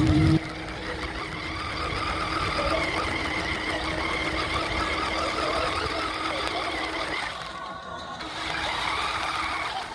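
Motor of a radio-controlled truck running with a steady whir. It dips briefly about seven and a half seconds in, then picks up again.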